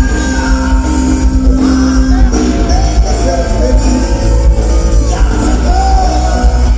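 Live rock band playing loudly, with a singer's voice over strong, steady bass.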